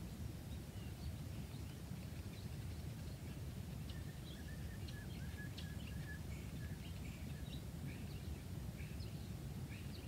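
Several songbirds chirping and calling in short high notes, with a quick run of notes about four seconds in, over a steady low rumble.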